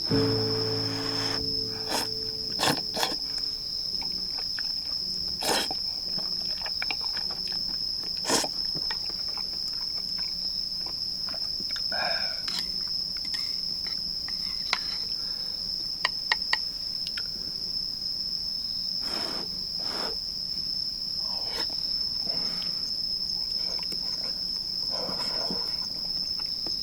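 Crickets trilling steadily on one high, unbroken pitch, with scattered sharp clicks and taps throughout.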